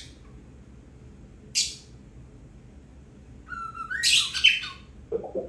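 A bird calling. It gives a short harsh squawk at the start and another about a second and a half in, then a run of whistled notes, some rising in pitch, mixed with scratchy calls near the end.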